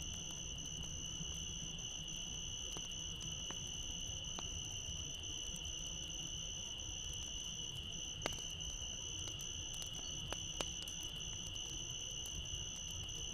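A steady high-pitched chorus of crickets trilling without a break, over a low rumble, with a few sharp pops and crackles from burning wood in a campfire scattered through it.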